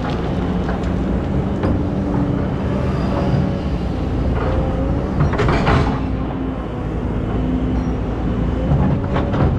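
Hydraulic excavator running steadily, its engine rumble carrying a whine that shifts slowly in pitch, with a short burst of clatter about five and a half seconds in.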